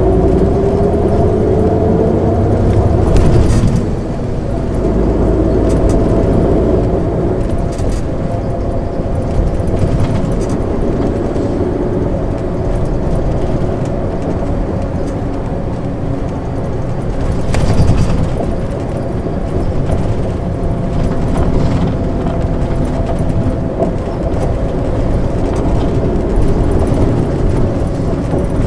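MAN ÜL 353 intercity bus driving: its diesel engine rises in pitch as it accelerates over the first couple of seconds, eases off about four seconds in, then runs steadily under way. A few short knocks and rattles come through, one near the start and one in the middle.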